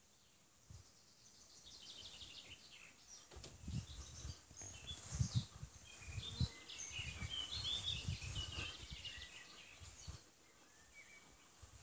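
Small birds chirping and singing in short, overlapping calls, busiest in the middle, over an irregular low rumble on the microphone.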